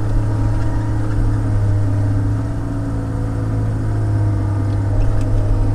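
Diesel engine of a Komatsu log loader running steadily, its pitch and level sagging slightly about halfway through, then picking up again.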